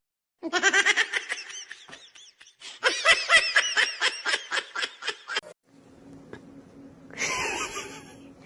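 High-pitched laughter in two long runs of quick pulses, followed by a short rush of noise near the end.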